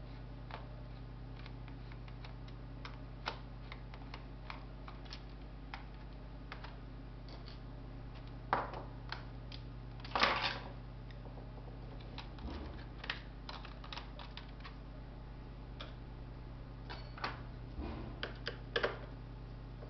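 Scattered light clicks and taps of small plastic and metal laptop parts and tools being handled during disassembly, with louder clatter about eight and ten seconds in and a few more clicks near the end. A steady low hum runs underneath.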